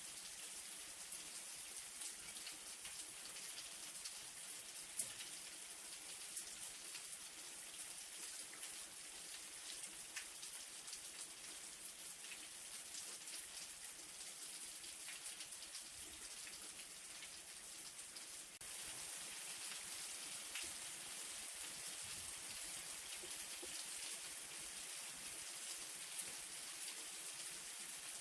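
Light rain falling steadily, a fine hiss with many small drop ticks, one sharper tick about five seconds in. The level steps up slightly about two-thirds of the way through.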